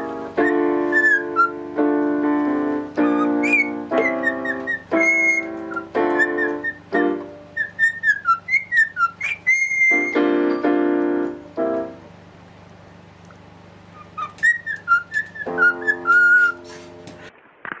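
A whistled tune of gliding, wavering notes over piano-like pitched notes, breaking off for a couple of seconds about twelve seconds in.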